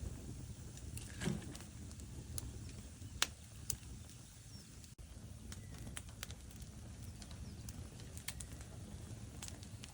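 Wood fire burning in a fireplace: a steady low rumble of burning logs with scattered sharp crackles and pops, the loudest about three seconds in.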